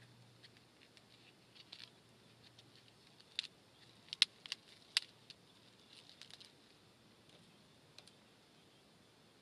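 Wood campfire crackling: a few sharp, scattered pops, clustered around the middle, over a quiet background.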